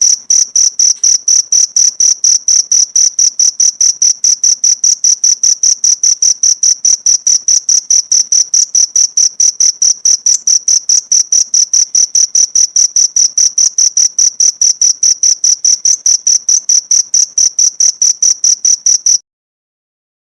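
Cricket chirping: a steady run of rapid, evenly spaced, high-pitched chirps on one clear tone, which stops abruptly near the end.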